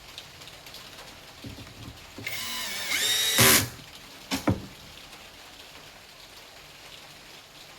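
A small electric power tool, such as a screwdriver, whines for about a second with its pitch rising as it spins up, followed by two sharp clicks.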